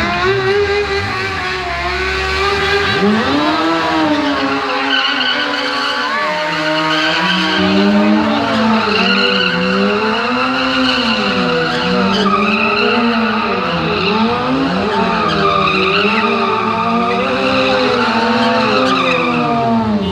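A car sound whose pitch rises and falls over and over, about one swing every second or two, without a break.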